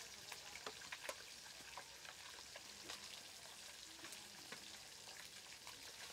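Faint sizzling with scattered small crackles from food frying in a large iron wok over a wood-fired clay stove.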